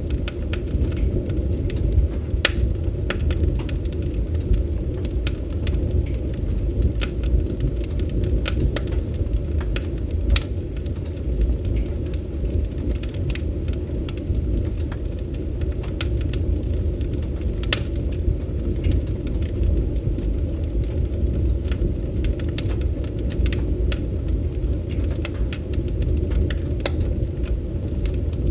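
Fire burning in a fireplace: a steady low rumble of flames with irregular sharp crackles and pops.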